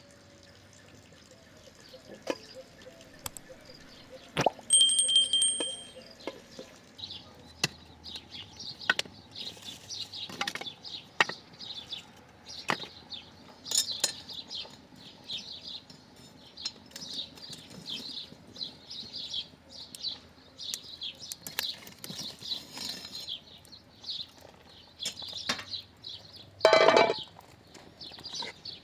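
Birds chirping repeatedly in short high notes, among scattered clinks and knocks, with one louder call near the end.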